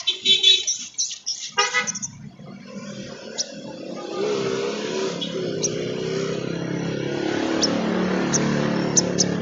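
A sunbird gives a quick run of high chirps for about two seconds. Then the sound of a passing motor vehicle builds and holds, with a wavering horn-like tone about halfway through, while single sharp bird chips sound over it.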